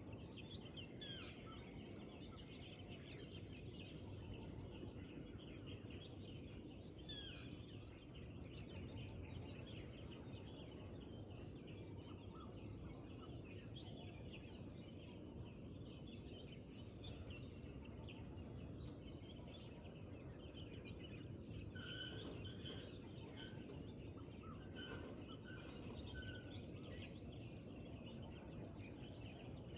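Forest ambience of many distant songbirds chirping over a steady low rumble and a constant high-pitched whine. Two quick falling whistles come about one and seven seconds in, and about two-thirds of the way through a nearer bird calls a run of short notes.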